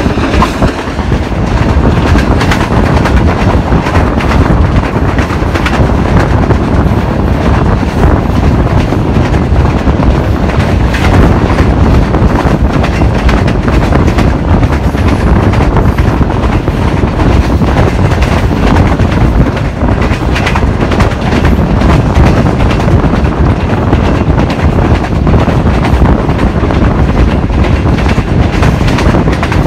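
Passenger train running on the line, a loud steady rumble of the coach with a dense clatter of wheels over the track.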